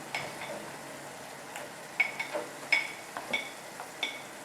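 A metal utensil clinking against a pan about half a dozen times, mostly in the second half, each clink ringing briefly, as guanciale is put back into the tomato sauce and stirred.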